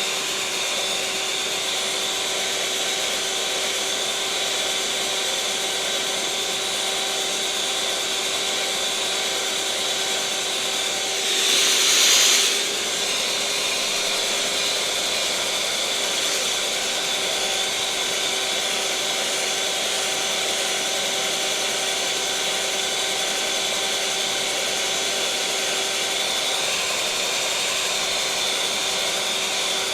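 Electric mixer motor running steadily, a constant whirring hum with a whine in it. About twelve seconds in it briefly turns louder and hissier, then settles back.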